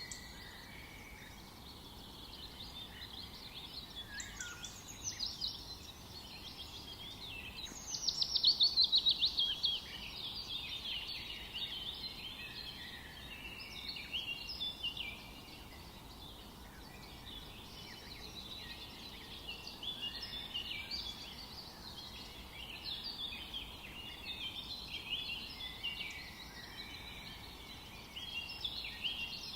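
A chorus of several birds singing and calling over a faint steady background hiss. About eight seconds in comes the loudest call, a fast trill that falls in pitch.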